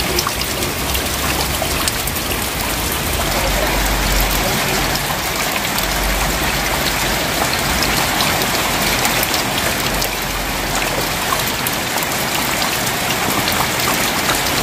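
Steady rain: a constant hiss of falling rain with countless separate drop hits, landing on running water and on corrugated metal roofing.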